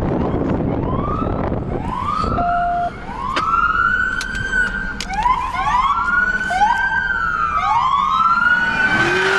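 Several police car sirens wailing at once, their rising and falling wails overlapping, with one sliding down in pitch near the end. Wind rumble on the microphone covers the first few seconds.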